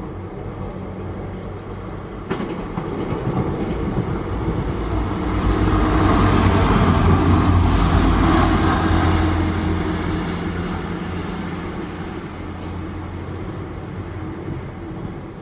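A diesel railcar passing close by: its engine hum and the running noise on the rails grow louder, peak about six to nine seconds in, then fade as it moves away. A single sharp click sounds about two seconds in.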